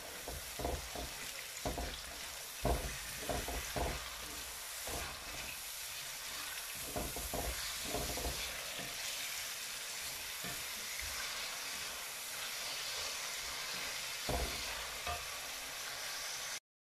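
Tomatoes and onions sizzling in oil in a terracotta casserole while being stirred with a wooden spoon: a steady frying hiss with scattered knocks of the spoon against the clay pot, mostly in the first half. The sound cuts out abruptly just before the end.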